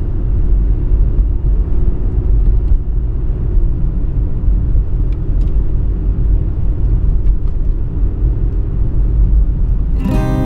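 Storm wind buffeting the microphone, a loud, unbroken low rumble, with guitar music coming in near the end.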